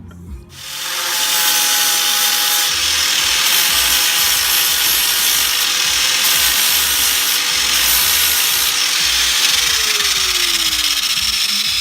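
Power sander running against the Honda Civic's engine bay, a loud steady hiss. The motor's tone slides lower near the end as it slows or bears down harder.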